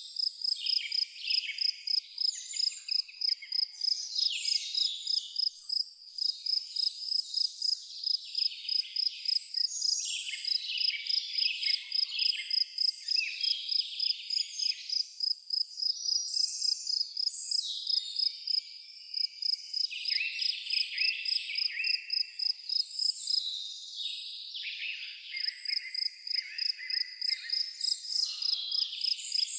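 A cricket chirping steadily, in even pulses at about three a second, while many birds call and sing over it in short, varied phrases, several of them falling in pitch.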